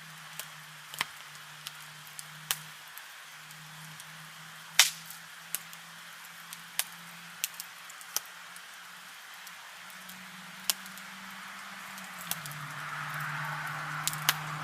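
Wood campfire crackling: irregular sharp pops over a steady hiss, with a faint low hum underneath. The hiss grows a little louder near the end.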